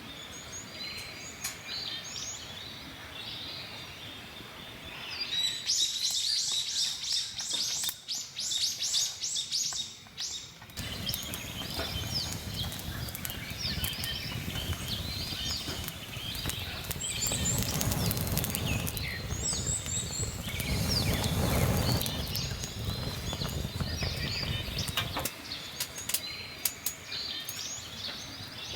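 Wild birds chirping and singing, with one bird giving a fast repeated call series from about six to ten seconds in. From about eleven seconds, many sharp crackling clicks and a low rushing noise join in, loudest around eighteen to twenty-two seconds.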